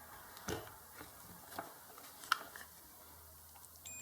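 Faint, scattered small clicks and taps as relay pins on a gate-opener control board are probed. Just before the end a steady, high electronic beep starts.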